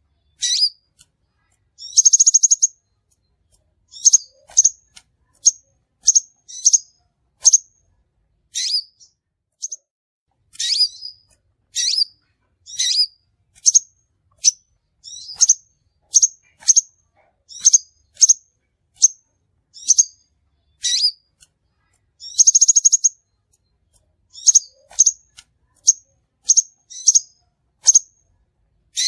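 Crimson sunbird calls played as a lure recording: short, high chirps one to two a second, broken by two longer buzzy trills, one about two seconds in and one about three quarters of the way through.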